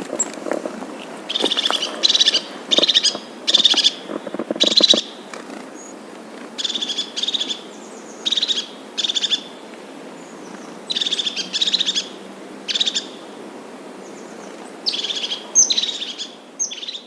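A bird calling over and over: short, rattling, buzzy calls of about half a second each, given in four runs of three to five calls with pauses of a second or two between runs.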